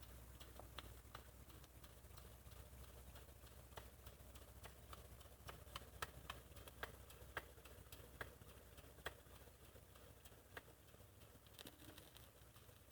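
Faint, irregular light clicks and ticks from a Jensen #35 live steam engine running at low speed, over a low steady hum.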